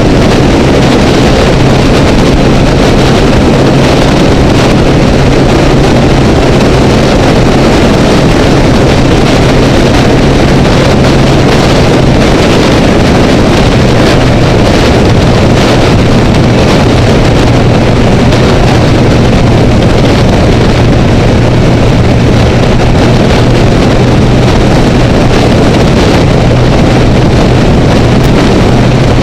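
Honda Rebel motorcycle engine humming steadily at freeway speed under heavy wind rush, muffled through a waterproof camera housing; the engine note steps slightly lower about halfway through.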